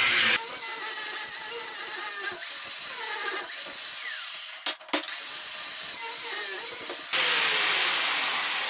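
Bosch GWS 880 angle grinder with a 1 mm steel cutting disc, cutting into old concrete with a steady, loud grinding hiss. The sound briefly drops away around the middle.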